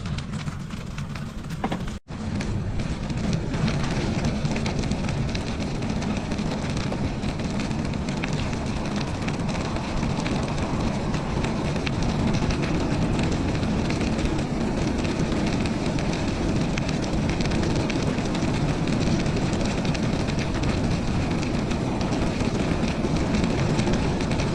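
Steady rushing rumble of wind on the microphone and tyre noise while riding a bicycle on a snowy trail, with a brief dropout about two seconds in.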